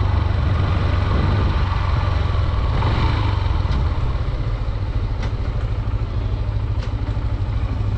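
Honda Dream 110's single-cylinder four-stroke engine running steadily as the motorcycle rides along, with a constant rushing noise over it.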